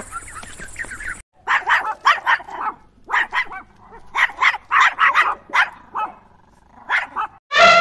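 A dog barking in quick runs of several barks with short pauses between, starting after an abrupt cut about a second in.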